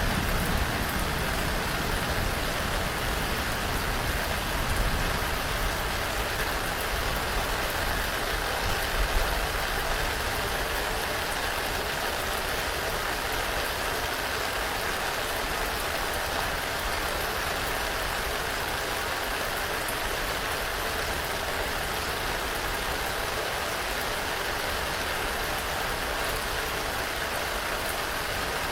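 Steady rain falling, an even hiss without a break. A low rumble underneath during roughly the first ten seconds fades out.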